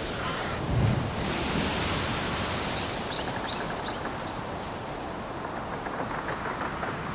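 Outdoor nature ambience: a steady rushing noise, with a low thump about a second in and a brief run of short, high chirps about three seconds in.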